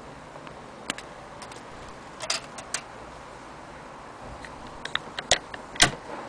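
A handful of sharp, irregularly spaced clicks and light clacks from an antique Singer 12K sewing machine being handled, the loudest two near the end, over a steady faint hiss.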